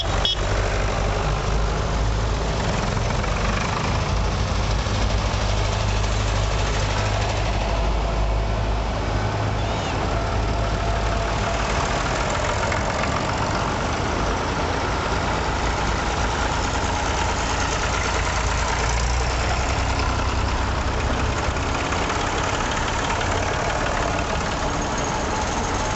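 Vintage tractor engine running steadily at low revs, with a deep, even beat.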